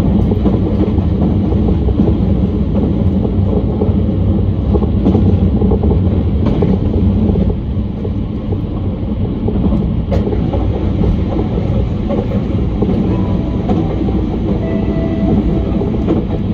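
JR Kyushu 883 series electric train running at speed, heard from on board: a steady rumble of wheels on rail, a little quieter about halfway through.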